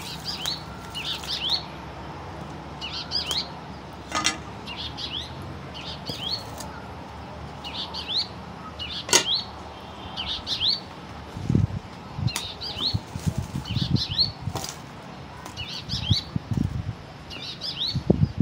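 A bird repeating a short high call of a few quick notes about every one and a half seconds, with a few sharp clicks and, in the second half, low knocks and thumps.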